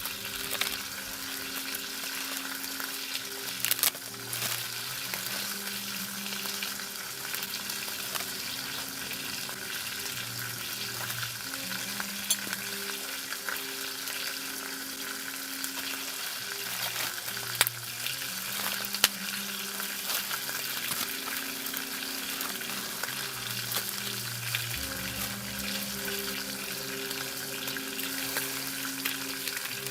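Food sizzling and frying in a pan over a campfire, a steady hiss broken by a few sharp pops.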